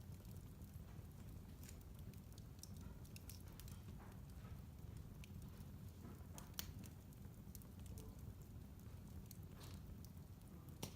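Wood fire in a fireplace crackling: scattered sharp pops and ticks over a low steady rumble, with a louder pop about six and a half seconds in.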